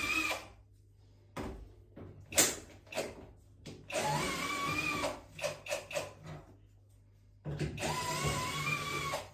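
A power tool, such as a drill or electric screwdriver, running in three short bursts with a wavering whine, with knocks and clicks between the bursts.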